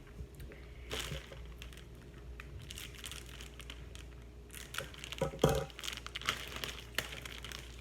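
Plastic candy wrappers and packaging crinkling and rustling as the candies are handled, with scattered crackles and one louder knock about five and a half seconds in.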